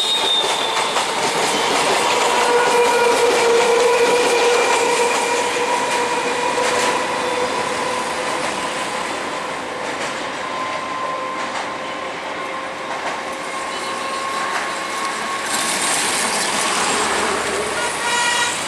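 Electric multiple unit local trains running on the rails: continuous rolling wheel noise with clickety-clack over the rail joints and a steady whine. It is loudest in the first few seconds as a train passes close by, then eases off.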